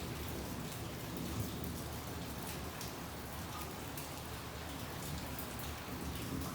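Steady rain falling, an even hiss with many individual drops ticking on surfaces.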